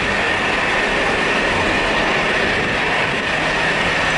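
Jet airliner engines running with a steady rushing noise and a thin high whine over it.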